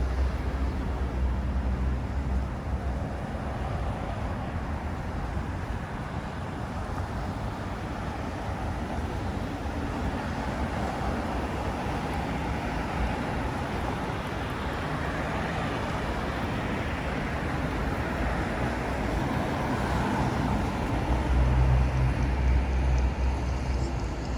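Downtown street traffic: a steady wash of vehicle engine and tyre noise that swells about three-quarters of the way through. A low engine rumble sits under it at the start and again near the end.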